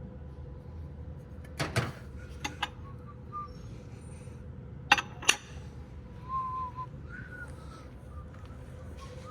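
A few sharp clinks and knocks of handled objects, the loudest about five seconds in, over a steady low hum, with faint short whistle-like notes in the second half.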